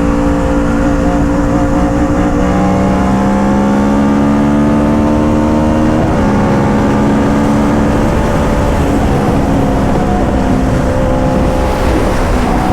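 Motorcycle engine pulling hard under acceleration. Its pitch rises steadily, then drops abruptly at a gear change about six seconds in and climbs on from lower down.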